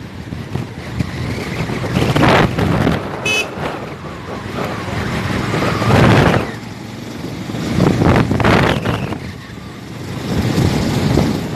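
Motorcycle riding along a road, with wind buffeting the microphone in surges that rise and fall every second or two. A brief high-pitched beep sounds about three seconds in.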